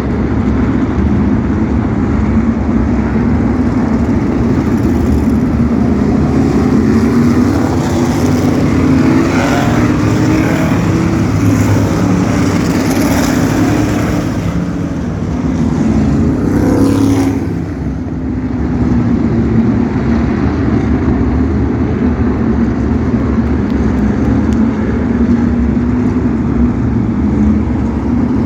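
A field of asphalt sprint cars racing, their V8 engines running hard and continuously. A little over halfway through, one car sweeps past close by, its note rising and then falling away as it goes.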